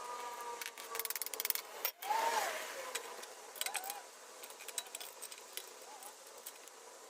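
Hand tools clicking and clinking on small engine parts, with a quick run of rapid clicks about a second in, then scattered lighter clicks and a few faint squeaks.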